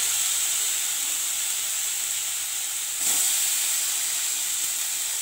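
Chopped tomato sizzling in hot oil and spice paste in a kadai: a steady hiss that steps up at the start and again about three seconds in.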